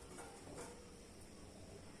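Near silence: quiet room tone with a couple of faint light ticks early on.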